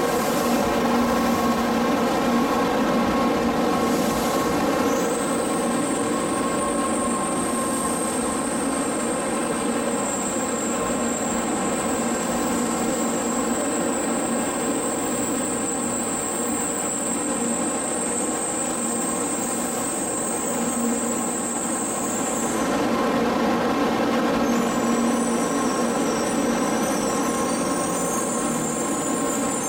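N700-series Shinkansen train pulling into the platform and slowing to a stop: steady running hum with a high whine that holds for much of the time and cuts off about two-thirds of the way through.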